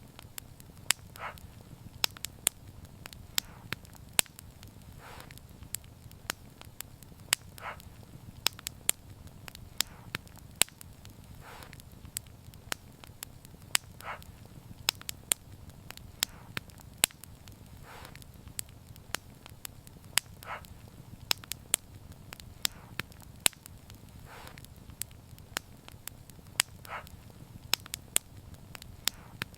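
Wood fire crackling: frequent sharp pops and snaps, irregularly spaced, over a steady low rumble of burning, with a softer hiss every few seconds.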